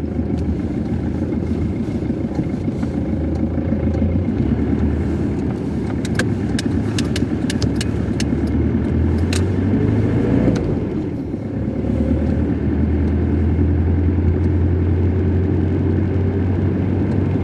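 A car driving, its engine and road noise making a steady low rumble. A run of sharp clicks comes about halfway through, and the engine note dips briefly and then picks up again near the two-thirds point.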